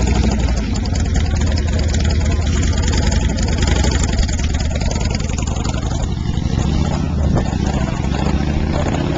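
Harley-Davidson Sportster V-twin engine in a small hot-rod roadster running as the car pulls away, a loud, steady low exhaust rumble that grows a little fainter in the second half.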